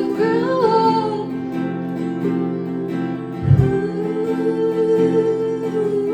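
Live acoustic guitar accompaniment with a voice singing long held notes, one sliding line near the start and a sustained note in the second half. A brief low thump about halfway through.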